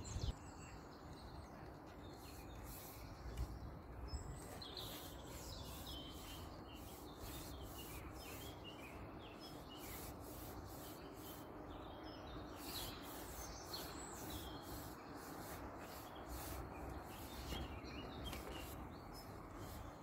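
Quiet waterside ambience: small birds chirping and singing faintly over a low, steady background noise, with frequent light high ticks.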